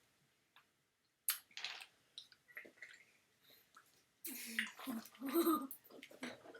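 Wet, muffled mouth sounds from someone with a mouth stuffed with marshmallows and ice, with a louder stretch of muffled mouth noise about four seconds in.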